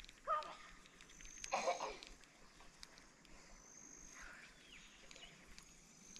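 Faint bush ambience: a couple of short bird calls early on, with a thin, high steady whistle that comes and goes every second or two.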